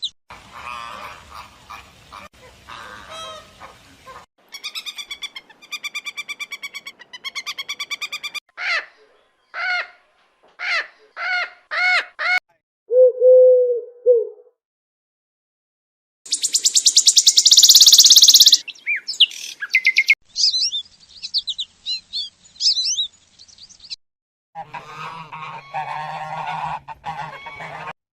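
Calls of several different birds, one short clip after another: a series of rising honks, buzzy repeated calls, a brief low warbling note, a loud rapid chatter and high chirps.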